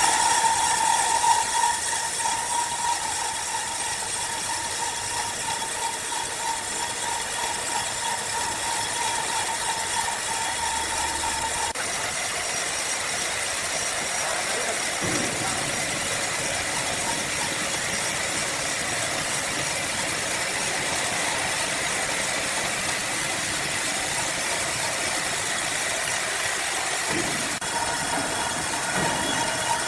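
Sawmill machinery running steadily on an oak log, a loud, even mechanical noise. A faint high hum sits over it for the first dozen seconds, and the sound shifts a little about halfway through and again near the end.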